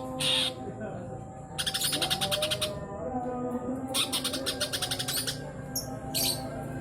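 Green leafbird (cucak ijo) chattering in two rapid runs of harsh notes, about a second each, with a few short high calls between, over a steady background tone.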